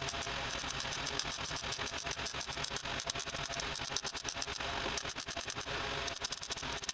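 Electric welding arc crackling and sputtering in a dense, irregular run of sharp clicks as beads are laid on sheet-metal body panels.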